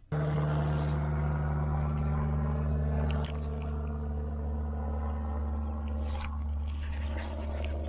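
Electric trolling motor on a jon boat switched on and running with a steady low hum. About three seconds in there is a click and the hum drops a little.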